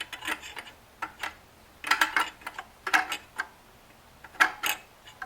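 Small metal clicks and rattles in irregular clusters, about one group a second, as a blade clamp is worked into place against its spring on a Craftsman 113.207650 scroll saw.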